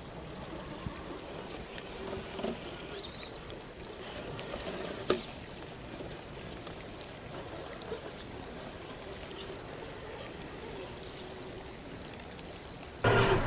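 Running water trickling steadily, with a sharp click about five seconds in. A louder noise with a low hum starts suddenly just before the end.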